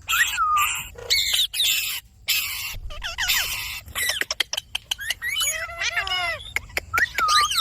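Indian ringneck parakeet calling: a few harsh screeches, then a quick run of chirps and whistled, falling squeaks.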